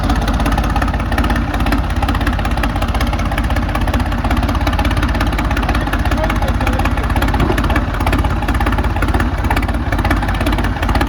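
Diesel tractor engine running loud and steady, its rapid firing pulses continuous throughout.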